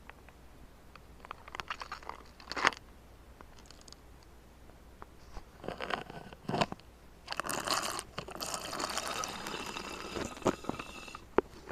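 Drinking sound effects: short wet mouth noises, sips and swallows in separate bursts with clicks, then a longer noisy stretch in the second half.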